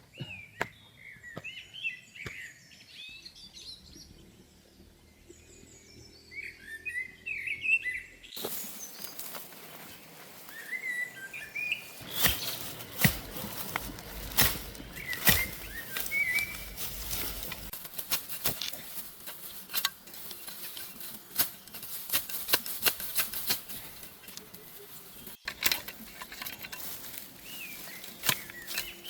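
Small birds chirping in short rising and falling calls over a quiet outdoor background. About eight seconds in, the sound changes abruptly to a rougher hiss with many sharp clicks and knocks, and the birds still chirp now and then.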